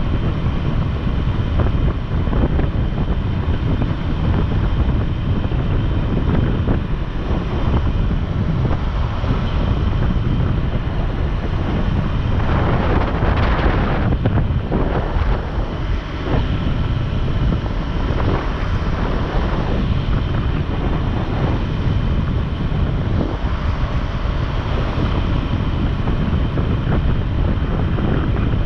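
Wind buffeting the microphone over a motorcycle's steady engine and road noise while riding, with a brief louder rush about halfway through.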